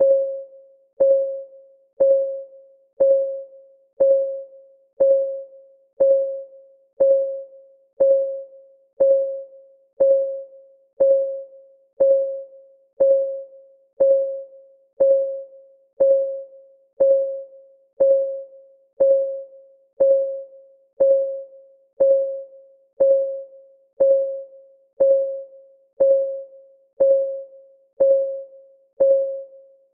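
Clock-ticking sound effect of a countdown timer: one short, pitched tick every second, each dying away quickly, in an even steady rhythm.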